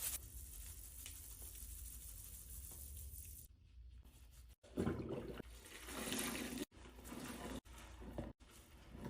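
Water running for about the first three and a half seconds, then a few short bursts of cleaning noise, cut off abruptly between one another.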